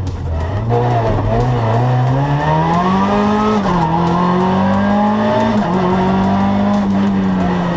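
Renault Twingo R2 rally car's four-cylinder engine heard from inside the cabin, pulling hard with its pitch climbing, dropping sharply at an upshift about three and a half seconds in, then climbing again and holding high for the rest of the stretch.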